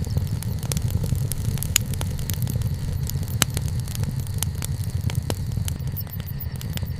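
Wood bonfire crackling, with irregular sharp pops and snaps (two louder pops about two and three and a half seconds in) over a steady low rumble.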